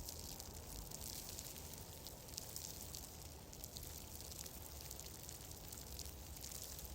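Cabin ambience soundscape: a steady soft hiss with many fine crackling ticks over a low rumble, like a fire crackling or rain pattering.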